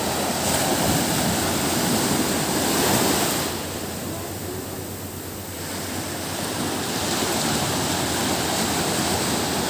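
Sea waves washing ashore: a steady rush of surf that swells about three seconds in, eases off, then builds again.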